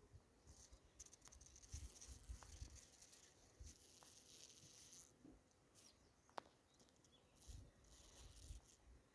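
Faint, patchy rustling hiss with low rumbling buffets and a few brief high chirps, the clearest about six and a half seconds in.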